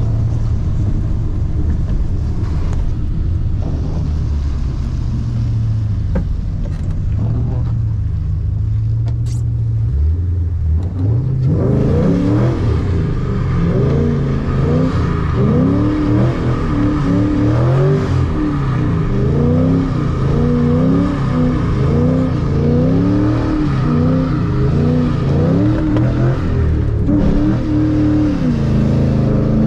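Ford Mustang GT's 4.6-litre three-valve V8, heard from inside the cabin. It runs low and steady for about the first ten seconds, then is revved up and down over and over, its pitch climbing and dropping every second or two.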